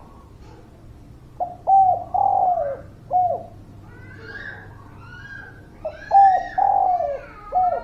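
Spotted dove (derkuku) cooing in two phrases, each a couple of short coos, a longer falling coo and a final short coo. Fainter, higher whistled and chirping calls of other birds sound between and over the phrases.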